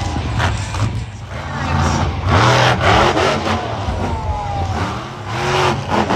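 Monster truck engine revving hard in repeated surges over a steady low running note.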